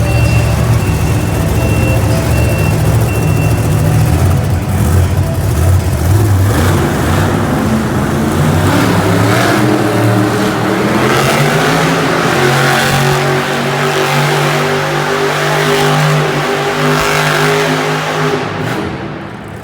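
Bigfoot monster truck's engine revving hard through a donut run, climbing in pitch from about six seconds in, held at high revs, then easing off near the end.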